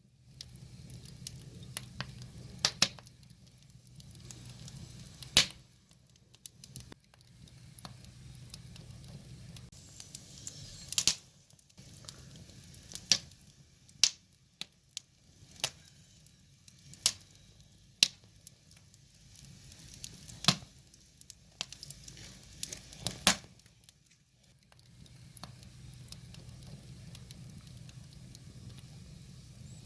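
Firewood burning, crackling with irregular sharp pops and snaps, a dozen or more of them loud, over a soft low rumble that fades in and out.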